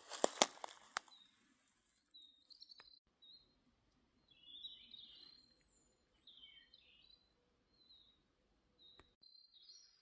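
Forest songbirds giving short, scattered chirps and brief trills. A few sharp clicks or crunches sound in the first second, before the calls begin.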